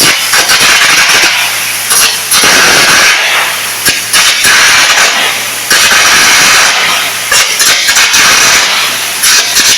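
Air carbon arc gouging: the carbon electrode's arc and its jet of compressed air make a loud, harsh hiss that breaks off briefly and starts again every couple of seconds, over a steady low hum.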